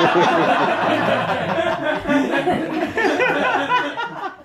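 Audience laughing together, a loud burst of many voices that tails off near the end.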